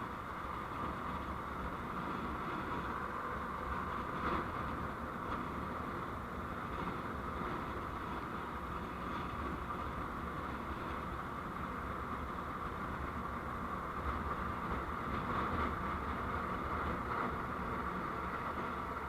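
Steady noise of a moving road vehicle picked up by a dashcam microphone, with a faint knock about four seconds in.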